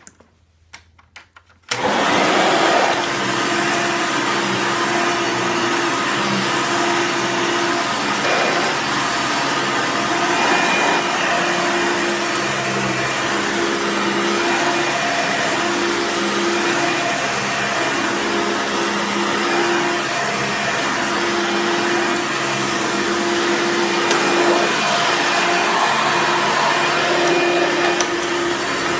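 Hoover Encore Supreme upright vacuum cleaner switched on about two seconds in, its motor starting abruptly and running steadily as it is pushed over dry leaves.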